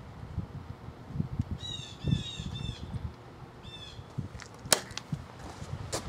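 A bird calls in two bursts of rapid, repeated high chirps, about one and a half and three and a half seconds in, over a low gusty rumble of air on the microphone. A single sharp click sounds near the five-second mark.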